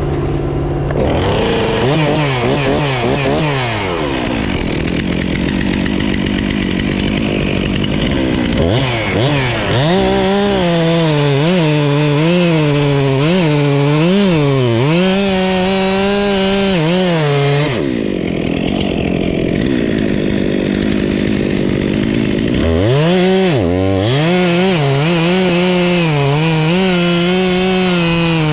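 Stihl MS 362 two-stroke chainsaw revving hard and cutting into big wood, its pitch dipping and recovering as the chain loads in the cut. It drops back between cuts, then revs up again about nine seconds in and again near 23 seconds.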